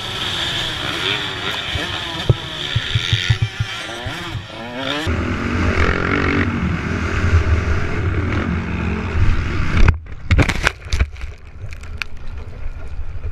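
Motorcycle engines revving up and down across several short clips, with abrupt changes about five and ten seconds in. The last seconds hold a series of sharp knocks.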